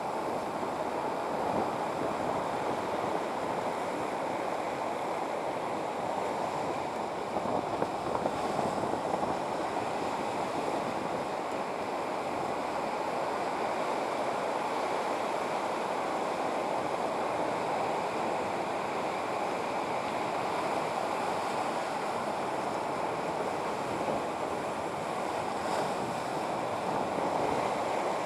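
Steady rushing of waves and wind, even throughout with no distinct strokes.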